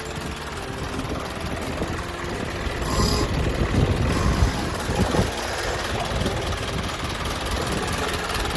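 Isuzu Forward truck's diesel engine running. It runs steadily at first, then louder and rougher from about three seconds in, with a brief hiss at that point.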